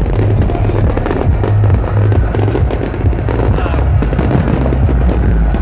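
Aerial fireworks display, with many rapid crackling bursts and pops going off together, over loud electronic dance music with a steady heavy bass.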